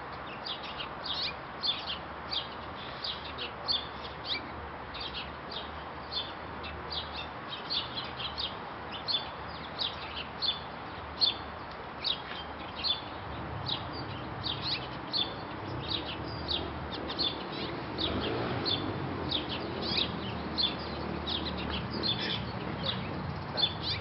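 Small birds chirping: a constant stream of short, high chirps, two or three a second, over a low outdoor hiss, with a low rumble coming in about halfway through.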